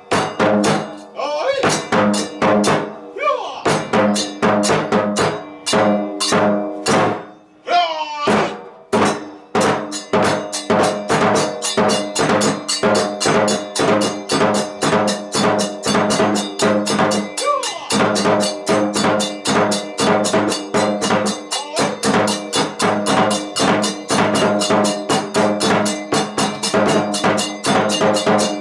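Kagura music: drums and small hand cymbals beat under steady held tones. The strikes come unevenly at first, with a short lull, then settle into a fast, even beat from about ten seconds in.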